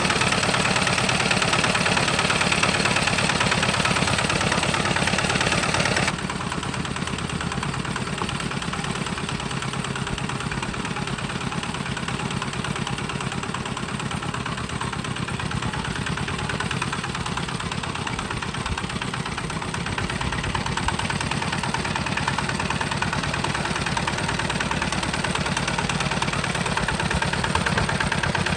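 Homemade tractor's engine running steadily, with a sudden drop in level about six seconds in.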